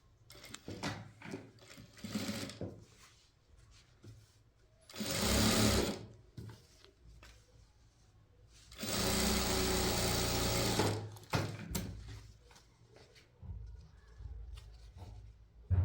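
Sewing machine running in two short bursts, one of about a second and a longer one of about two seconds, with light clicks and handling sounds of the work between them.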